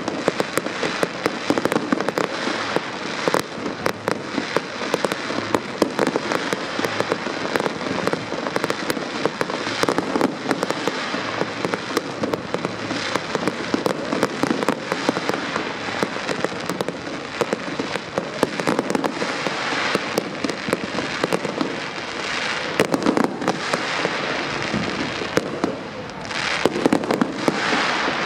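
Fireworks display: many aerial shells bursting in rapid succession, a dense, unbroken run of bangs and crackling.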